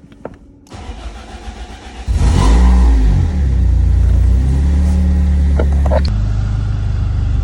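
BMW 318ti four-cylinder engine cranked by its starter, catching about two seconds in and revving, then settling to a steady idle near the end. It starts with the EWS immobiliser bypassed by a swapped-in pre-transponder engine computer and a push-button start.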